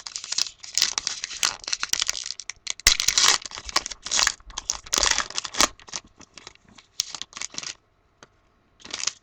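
Trading card pack wrapper being torn open and crinkled: a run of irregular crackling rips for several seconds, a brief lull, then one more crinkle near the end.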